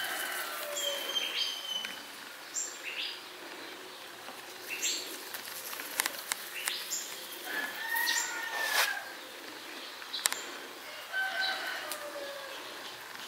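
Birds chirping, with short high calls and whistled glides every second or so. A few sharp clicks sound in between.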